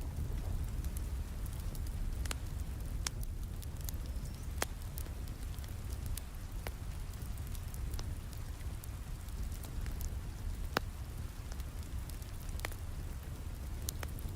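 Steady rain with a low rumble, over a wood fire crackling in a fireplace, with sharp pops at irregular intervals every second or so.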